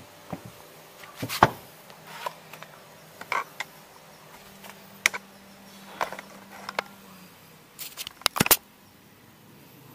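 Scattered clicks and knocks of hand tools and fasteners as a car's mud flap is unfastened, with a quick run of sharp knocks near the end.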